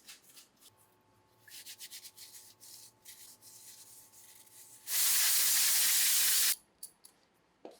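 A steady hiss of escaping pressurised gas, lasting about a second and a half, starting about five seconds in and stopping abruptly. Before it come faint, repeated rubbing strokes.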